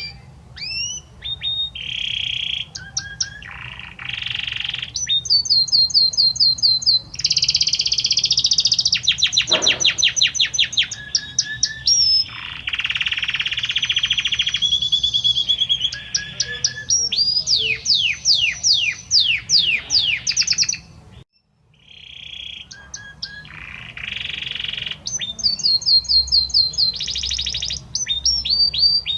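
Male domestic canary (Belgian canary) singing a long, loud, varied song of rapid trills, rolls and repeated downward-sweeping notes. The song stops for a moment about two-thirds of the way through, then starts again.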